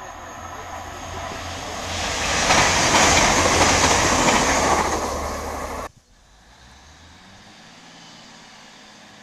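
TransPennine Express passenger train passing through at speed, a rushing rumble of wheels on rail that builds to a loud peak and then cuts off suddenly about six seconds in. After that a Northern Class 155 diesel multiple unit standing at the platform gives a faint, steady low engine hum.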